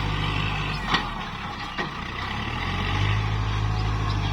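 Kubota MU4902 tractor's diesel engine running; its low engine note fades briefly about a second in and comes back stronger about three seconds in. A sharp knock sounds about a second in and another near two seconds.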